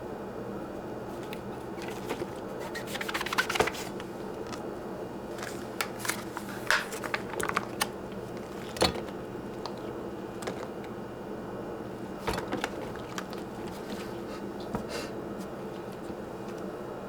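Irregular small clicks, taps and scrapes of kitchen items being handled, over a steady low hum.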